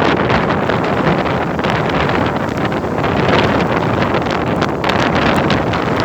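Hail falling: a dense, steady rush of noise peppered with many small sharp hits, mixed with the rush of a river.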